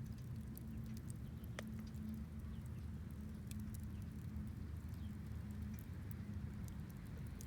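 Wood fire crackling, with scattered sharp pops and one louder pop about a second and a half in, over a low steady hum.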